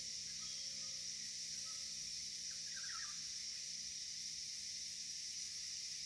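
Faint bird chirps, with a brief flurry of quick chirps about halfway through, over a steady high-pitched hiss.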